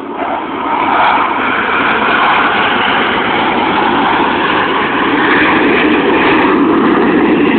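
Low-flying air show aircraft passing over, a loud steady roar of engine noise that swells about a second in and holds.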